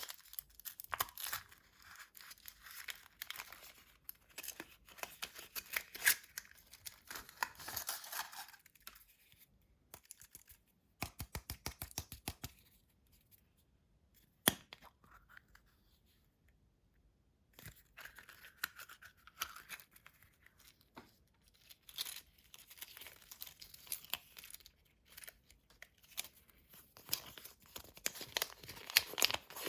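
Surprise-egg wrappers being torn open and crinkled by hand. About halfway through comes a quick run of even clicks and a single sharp click, then a few seconds of quiet before the crinkling picks up again.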